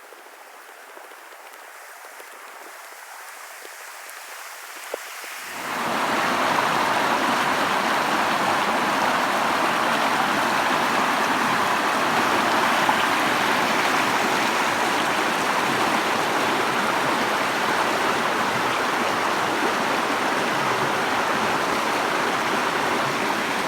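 Creek water rushing and splashing, running full after heavy rain. Faint at first, it becomes much louder about six seconds in and then holds steady.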